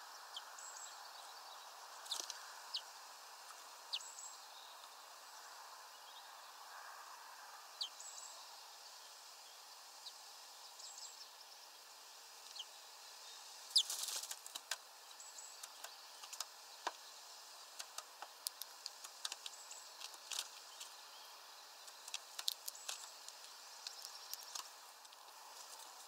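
Faint outdoor background hiss with short, high bird chirps every couple of seconds. From about halfway in there is a run of sharp clicks and ticks.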